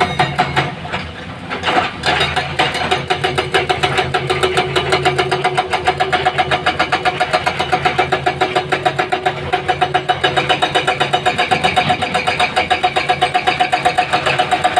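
Engine running with a rapid, even pulsing of about nine beats a second; it drops briefly about a second in, then runs steadily again.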